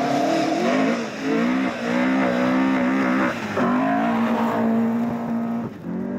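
Opel historic rally car's engine at full throttle, revving hard. Its pitch climbs, breaks off and drops a few times at the gear changes and lift-offs, then holds steady before dropping again near the end.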